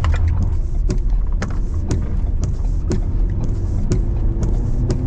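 Car driving, heard from inside the cabin: a steady low road rumble with a sharp click repeating about twice a second.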